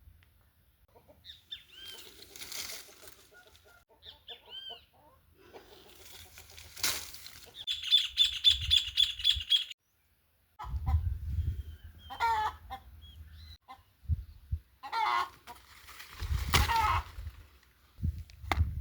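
Farmyard chickens clucking and calling, with small birds chirping and a rapid run of repeated high notes about eight seconds in. A low rumble comes and goes, and the sound cuts out briefly around ten seconds in.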